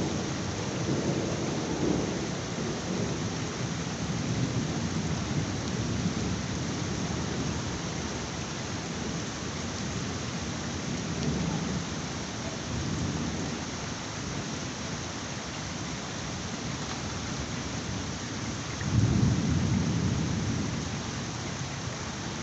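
Heavy rain falling in a steady hiss, with low rolls of thunder rumbling in it; the loudest roll swells near the end and lasts a couple of seconds.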